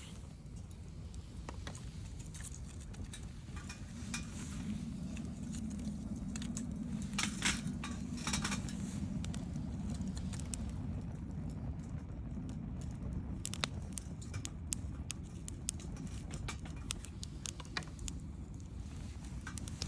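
Wood fire crackling, with sharp pops and snaps scattered throughout and a quick run of them about seven seconds in, over a low steady rumble.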